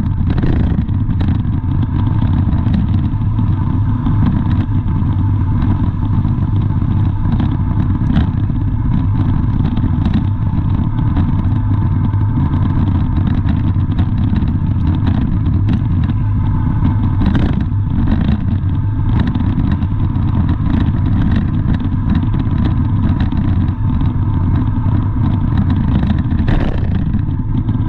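Steady vehicle running noise, a continuous low rumble with a few brief clicks and clatters.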